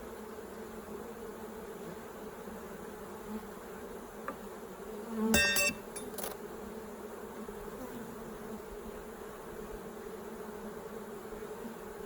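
Honeybees from an open hive humming steadily, a low even drone. About five seconds in, a louder buzz lasts about half a second, followed by a sharp click.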